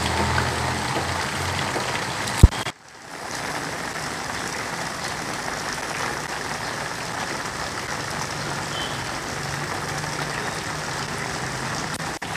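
Steady hiss of rain falling on flooded ground and standing water, with a low engine hum under it for the first second and a half. A sharp click comes about two and a half seconds in, followed by a brief drop-out.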